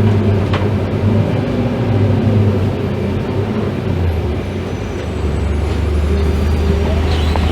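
Scania K310IB bus's diesel engine running under way, a steady low drone whose pitch drops about four to five seconds in and then holds.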